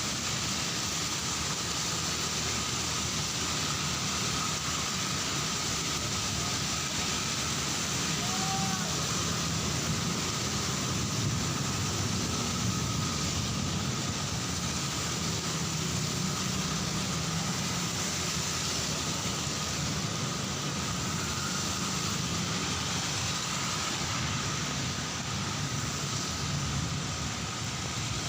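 Heavy rain falling steadily, with road traffic running past on a wet street under it, a low rumble of engines and tyres.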